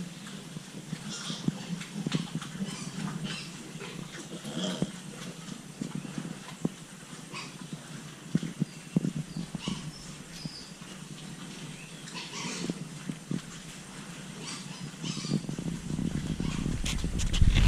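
Baby pigs squeaking and grunting in short, scattered bursts, with clicks and rustling between them; a low rumble builds near the end.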